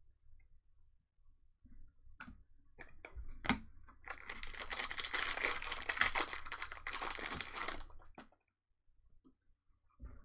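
A trading-card pack wrapper being torn open and crinkled for about four seconds, after a few light clicks.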